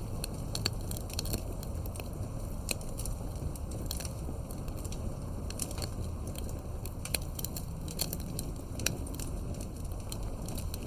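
Wood campfire crackling: irregular sharp pops and snaps, several a second at times, over a low steady rumble of burning.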